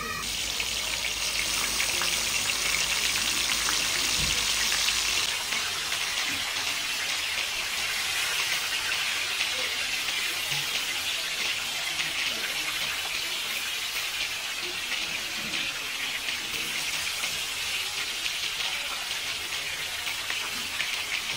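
Hilsa fish pieces and eggplant slices frying in oil on a flat iron griddle, a steady sizzling hiss.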